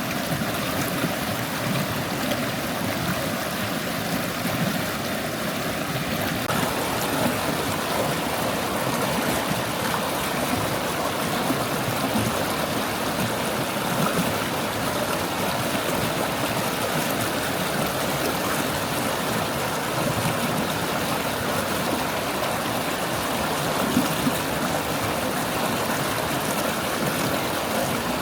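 Forest stream babbling over stones, a steady rush of flowing water. Its tone fills out slightly about six seconds in.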